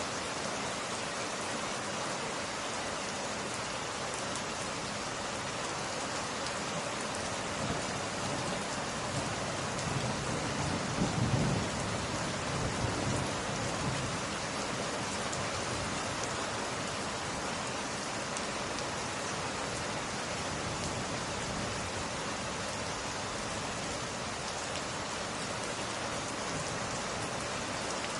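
Steady rain pattering on glass, with a low rumble of thunder swelling and fading about ten to thirteen seconds in.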